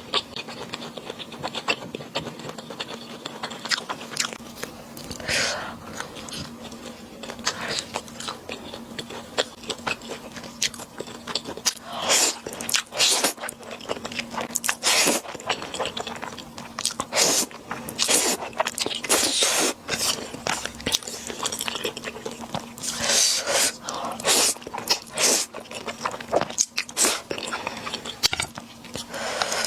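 Close-miked mouth sounds of eating Buldak spicy fried noodles with dried squid strips and butter-grilled squid legs: continuous chewing and biting, with many quick wet clicks and several louder crunchy bursts.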